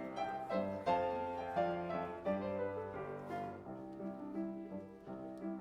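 Piano playing an instrumental interlude between sung verses of a Christmas choir anthem, a run of struck notes without voices.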